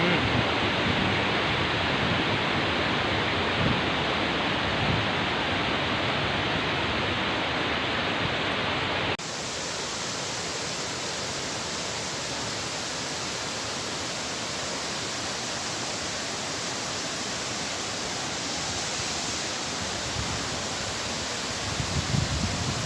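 Waterfall rushing steadily, a continuous wash of falling water. About nine seconds in the sound changes abruptly to a slightly quieter, hissier rush.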